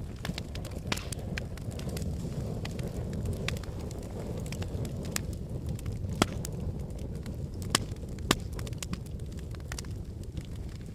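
Wood fire burning in a fireplace: a steady low rumble of flames with scattered crackles and sharper pops from the logs, the three loudest pops a little past the middle.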